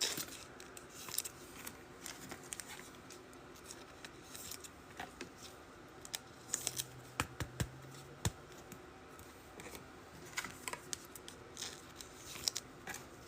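Trading card packs and cards being handled and opened by hand: scattered short clicks and crinkly rustles of wrappers and cardboard, coming in small clusters every few seconds.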